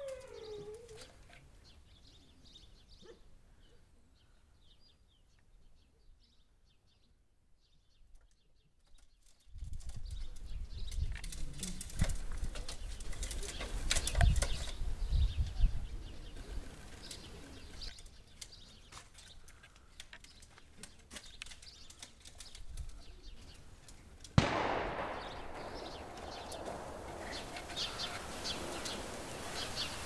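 Birds chirping and calling, with wings flapping. From about ten seconds in, a low rumble and scattered sharp clicks come in; about twenty-four seconds in, a steady hiss rises under the chirps.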